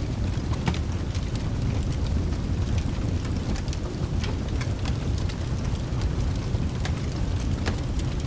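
Rain and thunder ambience with a steady low rumble, over which a wood fire crackles in sparse, irregular sharp pops.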